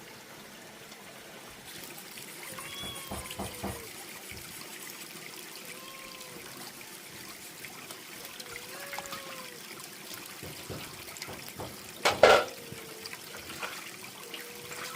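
Water trickling steadily, with several short high-pitched calls every few seconds and one loud sudden noise about twelve seconds in.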